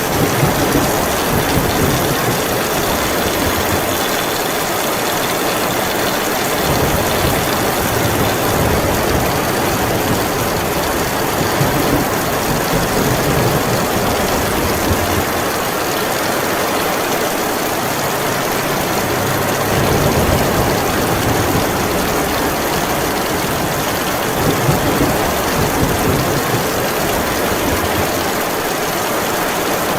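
Heavy rain falling steadily, with low rumbles that swell and fade every few seconds.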